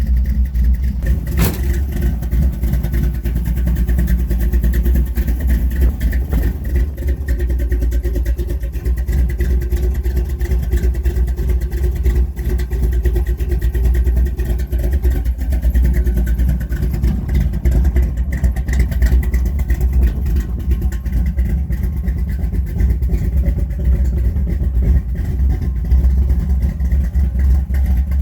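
Mopar 340 V8 with a big cam and headers running cold just after a cold start, an uneven, choppy idle with the choke not yet set up right. A sharp click sounds about a second and a half in.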